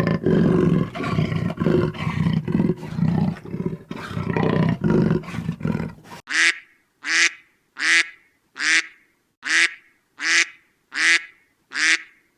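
A big cat roaring and growling in a dense, continuous run that stops abruptly about six seconds in. It is followed by eight short, identical quacking calls from a duck-like waterfowl, evenly spaced at a little under one a second.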